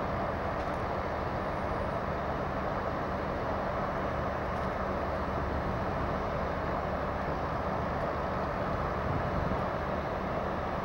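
An engine running steadily, a constant low hum under an even rushing noise, with no sudden knocks or changes.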